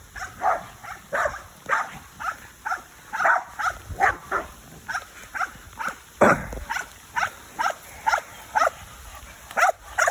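A dog vocalising in short, repeated bursts, about two or three a second, with one heavy thump about six seconds in.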